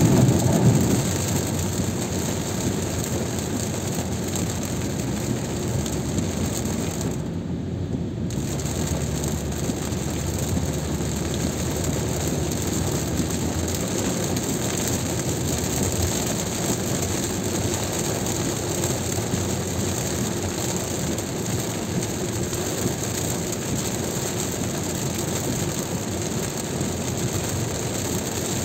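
Steady noise of heavy rain and wet-road tyre noise from a car driving on a motorway, with a louder surge in the first second. The hiss briefly drops away for about a second, seven seconds in.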